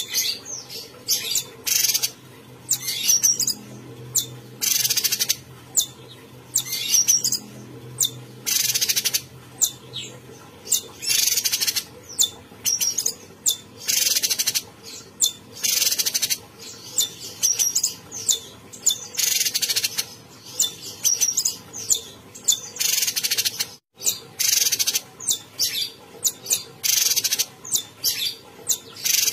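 A cucak cungkok singing vigorously in a long, unbroken run of short, high-pitched calls and phrases that follow one another every second or so.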